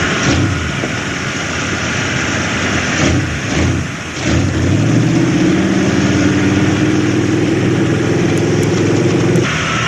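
Two-wheel-drive pickup truck engine at full throttle during a run. It sweeps up and down about three seconds in, then climbs and holds a high, steady pitch, and backs off just before the end.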